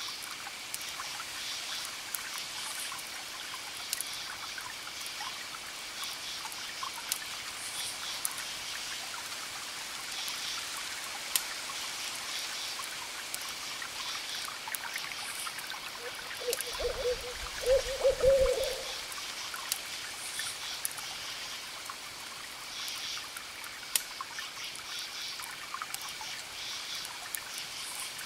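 A fire crackles with scattered sharp pops over a steady hiss. About two-thirds of the way through, an owl hoots: a short hoot, then a longer wavering one.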